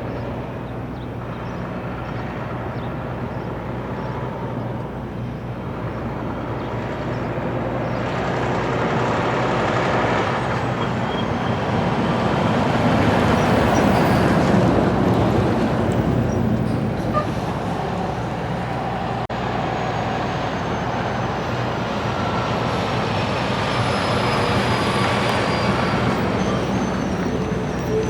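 Heavy vehicle traffic passing: a big rig goes by over a steady low engine drone, growing louder to a peak about halfway through and then easing off.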